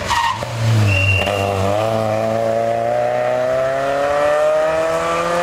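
Fiat Cinquecento rally car's engine pulling hard under acceleration. After a brief dip about one and a half seconds in, its pitch rises steadily through a long pull in one gear.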